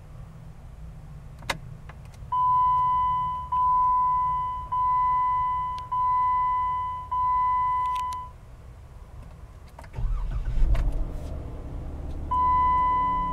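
A click of the ignition key, then the dashboard warning chime of a 2015 Jeep Wrangler Unlimited rings five times, each tone fading over about a second. About ten seconds in, its 3.6-liter Pentastar V6 cranks briefly, starts with a rev and settles into idle, and the chime rings once more near the end.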